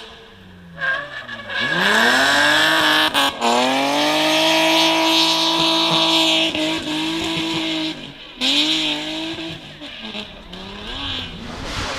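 Rally car engine lifting off into a corner, revs falling, then accelerating hard and holding high revs for several seconds with tyres squealing as it slides through. A quick gear change comes around three seconds in. Near the end it lifts, revs once more and fades away.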